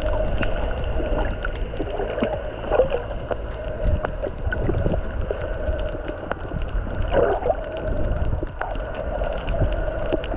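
A boat's engine running steadily under water noise, with a low rumble and scattered crackling clicks throughout.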